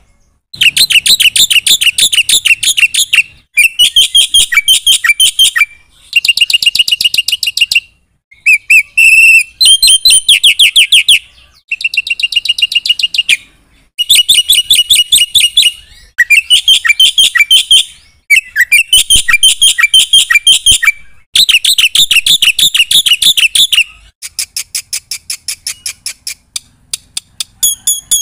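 Black-winged myna (jalak putih) singing loudly in phrases of rapid, repeated sharp notes, each phrase two to three seconds long with short pauses between. Near the end a quieter, steady run of evenly spaced notes takes over.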